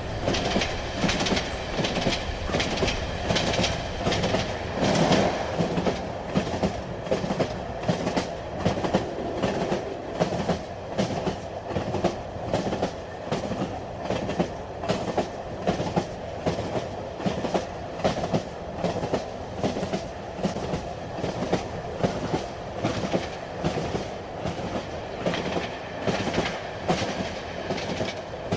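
A train running on the rails: the wheels click over the rail joints in a quick, even rhythm under a continuous rumble.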